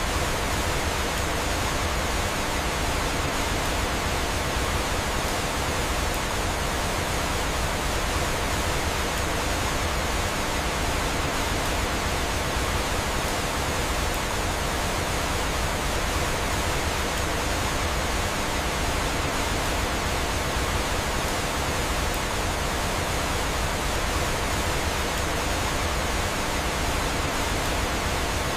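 Steady, unbroken rushing of a waterfall and flowing water, an even hiss with no distinct pops or crackles.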